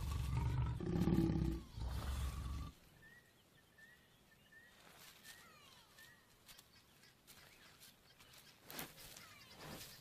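Lion growling and snarling loudly, cutting off sharply nearly three seconds in. Afterwards, faint bird chirps: a short note repeated several times, with a few thin sweeping calls.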